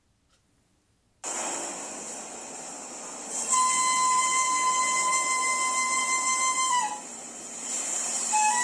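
Bamboo suling flute: a sudden breathy rush of air about a second in, then one long held note with heavy breath noise that dips slightly in pitch at its end, and a new melodic phrase starting near the end.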